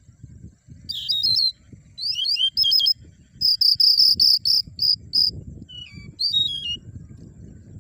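Songbird singing: quick phrases of sweeping chirps, with a run of about eight repeated high notes in the middle, over a faint low rumble.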